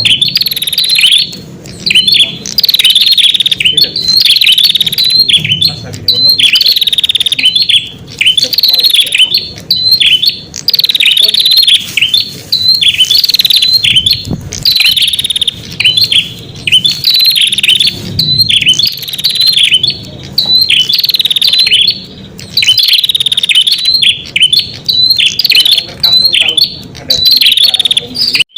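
Red-headed prenjak song from a lure-call (pikat) recording: loud, rapid chirping phrases repeated one after another with brief pauses.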